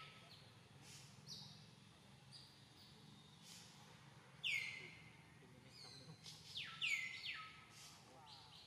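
Bird calling repeatedly: short clear notes that drop sharply in pitch and then hold level, the loudest about halfway through and twice more near the end, with fainter, shorter, higher notes in between.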